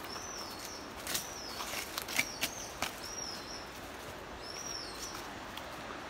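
A bird calling three times with a short, high, arched note, over the crunch of footsteps on a rainforest trail, the steps clustered in the first half.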